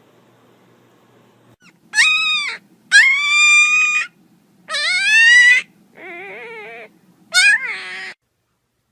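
A pet animal giving five long, high-pitched cries starting about two seconds in, several of them rising in pitch; the fourth is lower and quieter.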